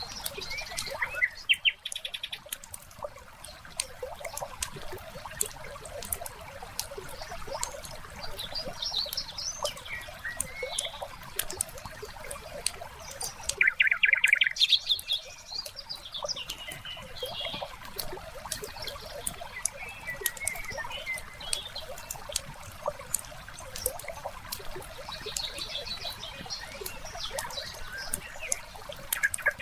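Wood fire crackling with frequent small pops over a soft hiss, layered with birds chirping on and off and a faint trickle of water. The loudest moment is a rapid bird trill about fourteen seconds in.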